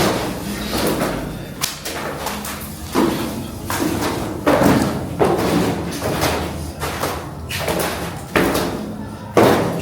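Irregular thuds and knocks, with a door being shut and slammed among them.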